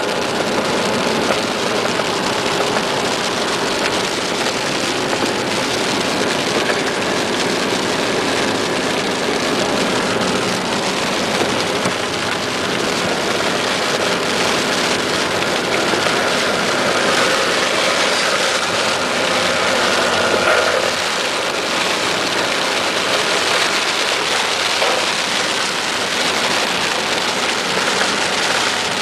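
Steady heavy rain falling, with vehicle engines running beneath it.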